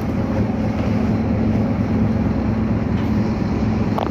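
Scania K310UA's rear-mounted diesel engine running steadily under way, a low, even drone heard from the back seats inside the articulated bus.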